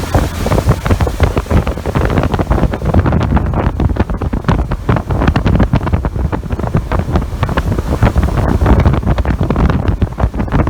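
Heavy wind buffeting the microphone on a motorboat under way, over the steady low rumble of the boat running across the water.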